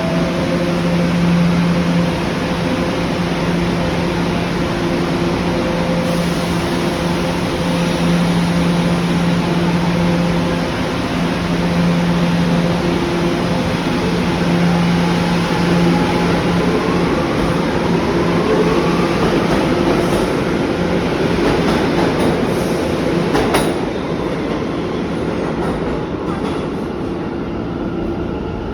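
New York City Subway train running through the station, a loud steady rumble carrying on-and-off humming tones. A whine rises about two-thirds of the way in, a sharp click follows shortly after, and the noise then eases a little.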